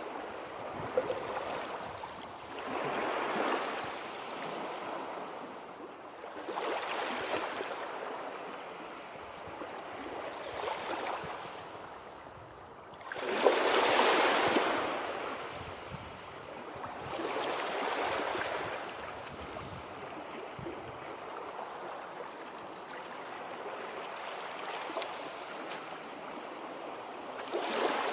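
Sea waves washing in, the surf swelling and falling back every three to four seconds, with the biggest surge about halfway through.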